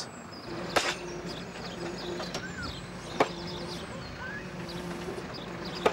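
A farm machine's engine running steadily, with three sharp knocks spaced a couple of seconds apart and faint bird chirps.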